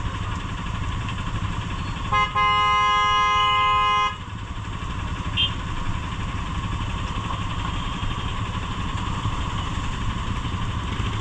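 Vehicle horn: a short toot about two seconds in, then a held honk of about two seconds that cuts off sharply. Under it, a motorcycle engine idles steadily.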